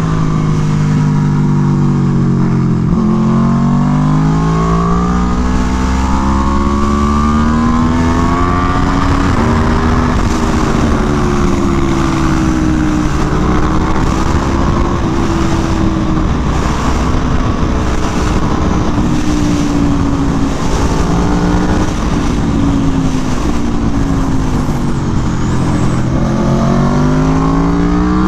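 Aprilia Tuono V4 1100 Factory's V4 engine through an SC Project exhaust at speed on track, its revs repeatedly climbing and dropping with throttle and gear changes, over steady wind rush.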